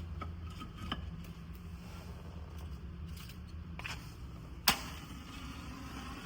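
A few light clicks and knocks over a low steady hum, with one sharp, loud click about four and a half seconds in.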